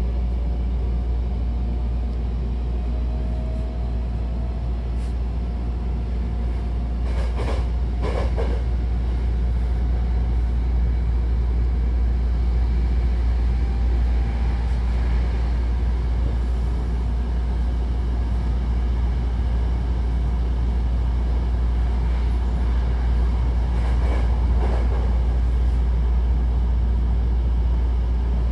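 Electric commuter train running, heard from inside the car: a steady low rumble. A faint rising whine in the first few seconds, and two short pairs of knocks from the wheels, one about a quarter of the way in and one near the end.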